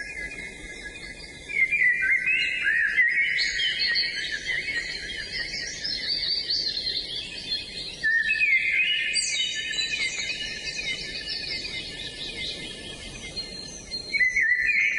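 A chorus of songbirds chirping and singing over one another in quick, repeated notes and trills. It opens with a steady high whistling tone and grows louder about one and a half seconds in, again around eight seconds, and near the end.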